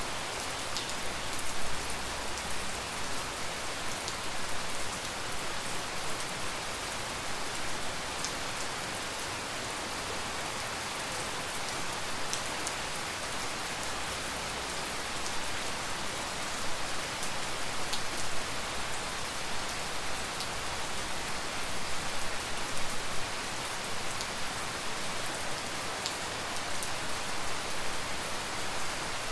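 Steady tropical rain falling, a dense even hiss with the sharp ticks of separate drops scattered through it.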